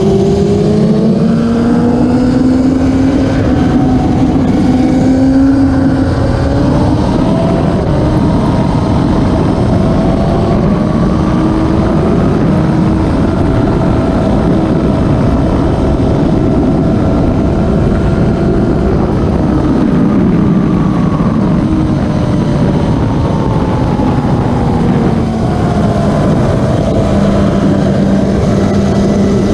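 Classic superbike racing motorcycle engines running together, several engine notes rising and falling slowly as the bikes accelerate and ease off, with one steadier note near the end.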